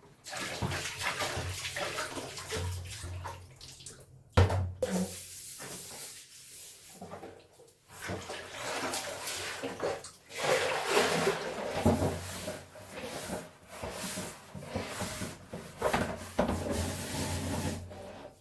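Water splashing and sloshing in irregular swishes as clothes are washed by hand in water, with one sharp, louder splash or knock about four seconds in.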